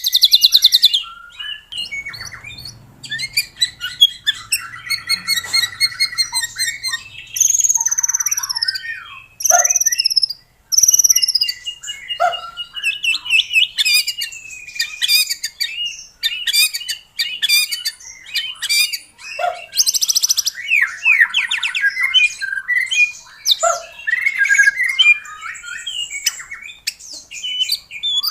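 White-rumped shama singing a loud, fast and varied song: clear whistles, down-slurred notes and rapid trills and chatter, with hardly a pause.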